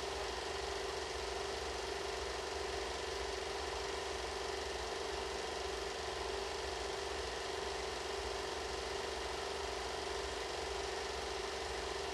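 Steady mechanical whirring hum with a constant tone and hiss, unchanging in level throughout.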